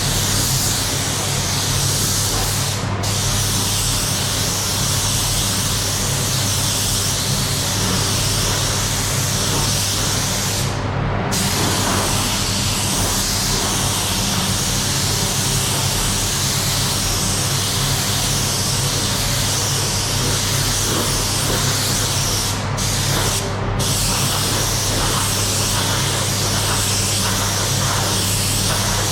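Compressed-air spray gun spraying primer: a steady loud hiss that stops for a moment about 3 seconds in, again around 11 seconds, and twice in quick succession around 23 seconds as the trigger is let off. A steady low hum runs underneath.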